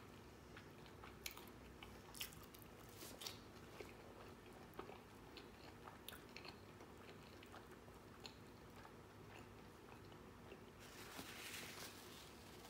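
Faint close-up chewing of a person eating a bacon cheeseburger: soft wet mouth clicks and smacks scattered throughout, with a short soft hiss near the end.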